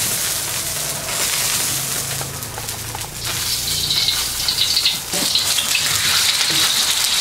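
Hot oil sizzling in an iron wok over a gas flame. The sizzle jumps louder about five seconds in, as sliced boiled eggs are tipped into the oil.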